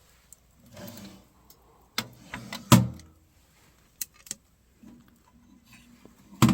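A few sharp knocks and clanks with a short rustle before them, the loudest about two-thirds of a second apart near the middle and another near the end: things being handled around a wood-burning stove.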